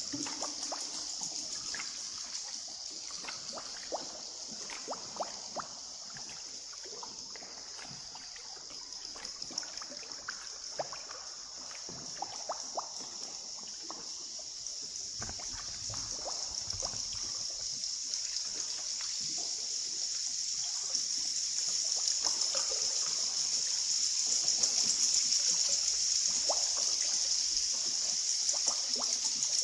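Water dripping and trickling inside a river cave: scattered single drops over a steady high-pitched hiss that grows louder in the second half.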